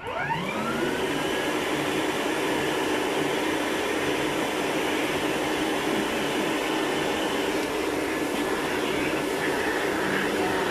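Vacuum cleaner switched on, its motor whining up in pitch over the first second, then running steadily.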